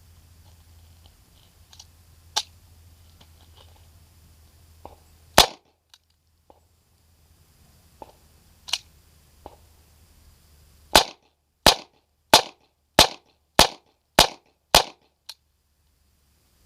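USFA Zip 22 pistol firing .22 rimfire rounds (Winchester white box): one shot, then after a pause a quick string of seven shots a little over half a second apart. A couple of quieter cracks come earlier.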